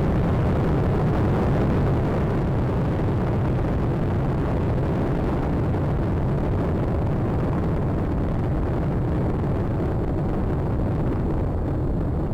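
Space Shuttle Atlantis climbing after liftoff, its solid rocket boosters and main engines making a steady low rumble that thins slightly in its upper range toward the end.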